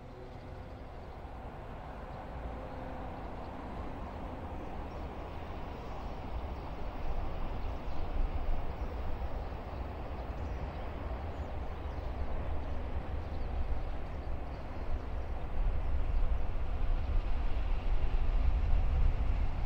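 Freight train double-headed by two EF64 electric locomotives approaching from a distance: a low rumble that grows steadily louder as it nears.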